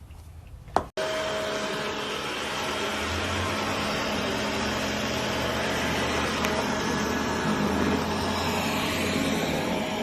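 A sharp click, then a steady, loud motor noise with a low hum that starts abruptly about a second in.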